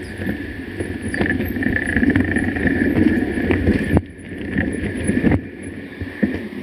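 Mountain bike being ridden over a rough trail: steady rumble with frequent knocks and rattles.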